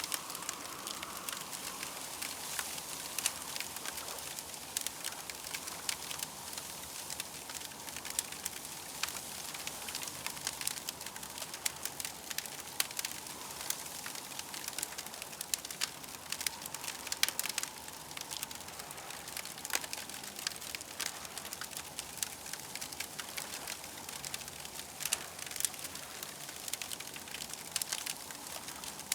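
Campfire crackling, with frequent small irregular pops over a steady hiss.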